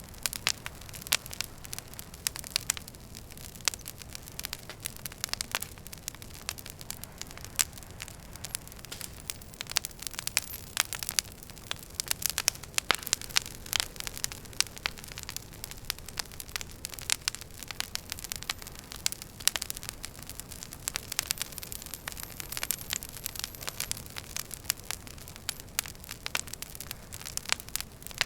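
Wood fire burning in a fireplace, crackling with many irregular sharp pops over a steady low rumble and hiss.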